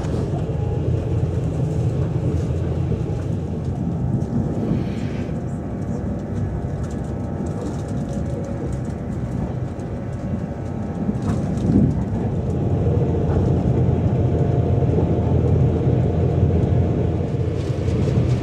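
Train running: a steady low rumble with faint steady whining tones above it, and a single knock about twelve seconds in.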